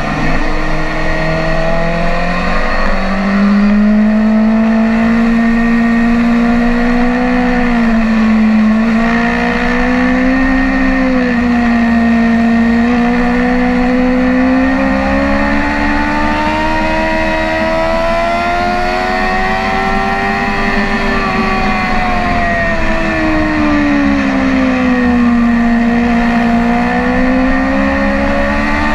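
Sport motorcycle's inline-four engine (BMW S1000RR) heard onboard at track speed, its pitch rising and falling in slow swells as the throttle is opened and rolled off through the corners. A steady low wind rush runs underneath.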